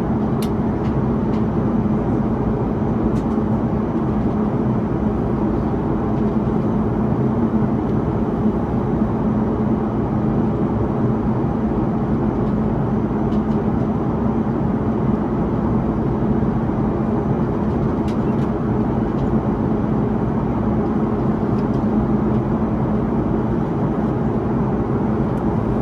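Steady cabin noise inside an Airbus A330-300 late in the climb: a constant rush of airflow and engine noise from its Rolls-Royce Trent 700 engines, with a steady low hum and a few faint ticks.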